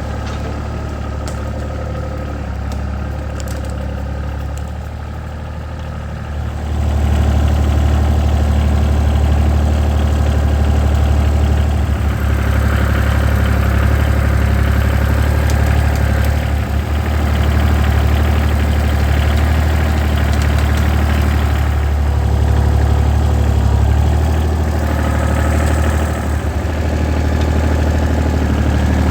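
Tractor engine running steadily, growing louder about seven seconds in.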